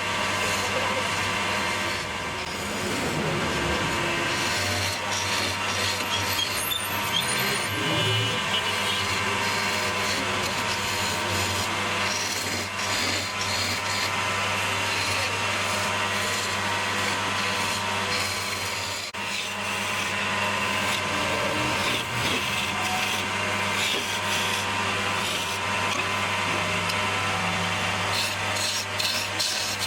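Wood lathe running, its motor giving a steady low hum under the continuous scraping of a tool cutting the spinning wood.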